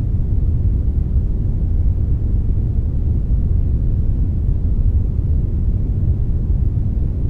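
Steady generated brownish noise, brown noise blended with white noise: an even, unchanging deep hiss with most of its weight low and little top end.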